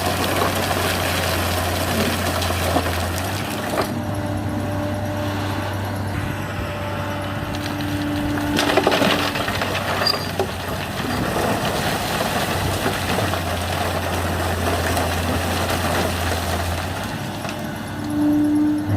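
Heavy diesel earthmoving machinery running steadily, with a low engine hum and a whine that comes and goes as the hydraulics work. There is a brief louder rush of noise about nine seconds in.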